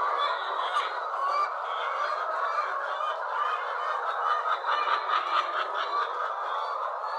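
A large flock of caged laying hens calling all at once: a dense, steady din of many overlapping calls.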